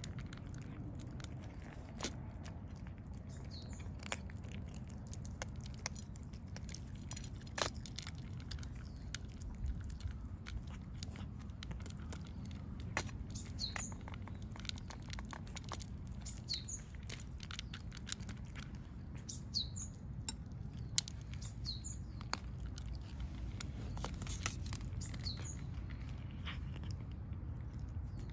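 Small birds chirping in short high calls every few seconds, with scattered sharp clicks and crunches, which fits cats eating dry food, over a steady low outdoor rumble.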